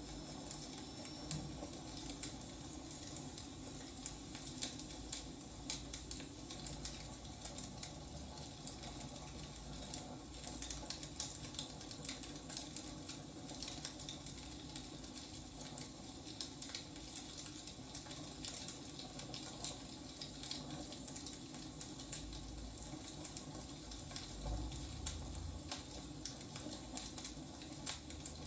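Firewood burning, with irregular crackles and small pops over a steady low hiss.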